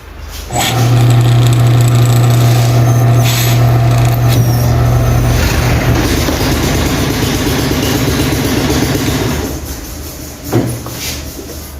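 Washing-machine motor fitted with a drill chuck is switched on and runs with a strong, steady hum. After about nine seconds it is switched off and dies away, and a short knock follows near the end.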